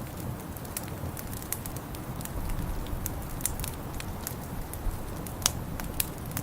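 Wood fire crackling, with irregular sharp pops over a steady low rumble; the loudest pop comes about five and a half seconds in.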